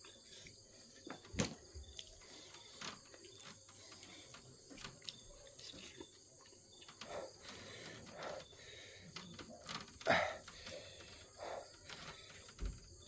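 Close-up eating sounds, chewing and small clicks and knocks, the sharpest about a second and a half in and again about ten seconds in, over a steady high chirring of crickets.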